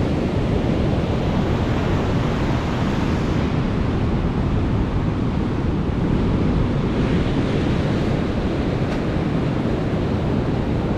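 Ocean surf breaking on a sandy beach, a steady wash of noise, with wind on the microphone.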